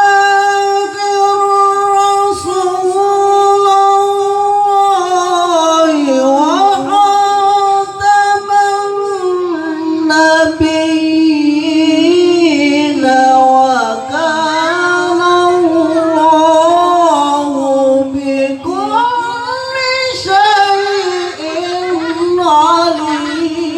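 A qori's solo voice in melodic Quran recitation (tilawah), holding long ornamented notes that waver and slide, stepping down in pitch twice along the way.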